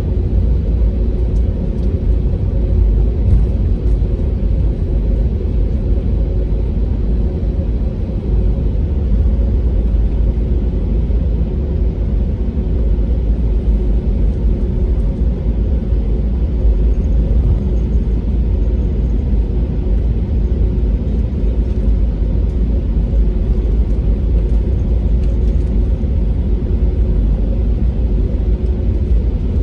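Steady low cabin rumble inside an Airbus A320neo airliner, with a faint steady hum from its Pratt & Whitney geared turbofan engines and airframe. The level holds even throughout with no rise in pitch.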